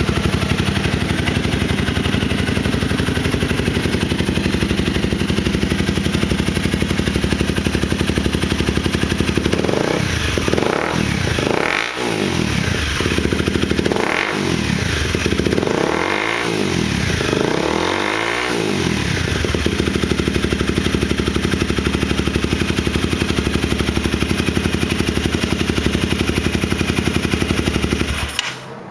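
Honda CBR250R's single-cylinder engine through a Yoshimura TRC exhaust, idling with a steady beat. It is blipped several times in quick succession, each rev rising and falling back, then it settles back to idle.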